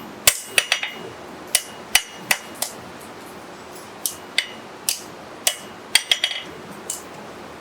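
Hand hammer striking steel in irregular light blows, about sixteen in all, some in quick runs of two or three, each with a short metallic ring.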